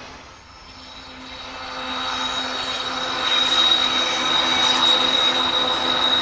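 Union Pacific freight train's diesel locomotives running as they approach, with a low steady engine tone that grows louder. A high steady squeal of wheels on the curved track joins about three seconds in.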